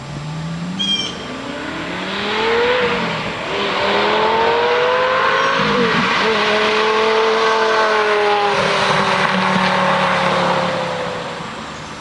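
Lamborghini Gallardo V10 with a Fabspeed Supersport exhaust accelerating hard past: the engine note climbs, drops with an upshift about three seconds in and again near six seconds, then stays loud and slowly falls away as the car passes and recedes.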